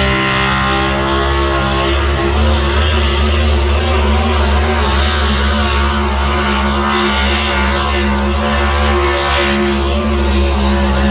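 A Chevrolet pulling pickup's engine running hard at high revs under full load as it pulls the sled down the track: a loud, steady engine note with a little rise and fall in pitch.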